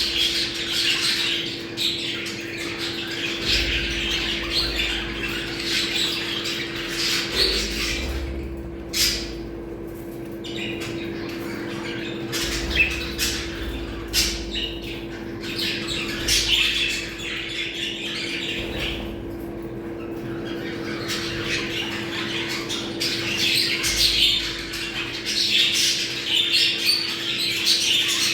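Budgerigars chattering, warbling and squawking without a break: the mating chatter played to bring pet budgies into breeding condition. A steady low hum runs underneath.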